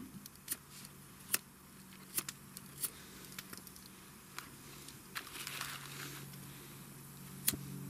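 Scattered sharp clicks, about one a second at times, with a brief hiss a little past the middle: a lighter being struck again and again at a firework fuse that does not catch.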